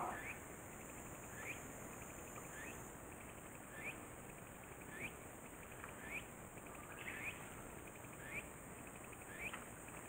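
A bird calling over and over, a short rising note about once a second, faint against a steady outdoor hiss.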